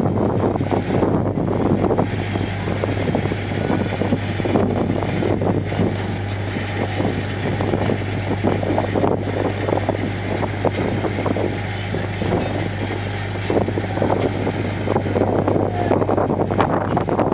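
Car ferry's engines running with a steady low hum, with wind buffeting the microphone.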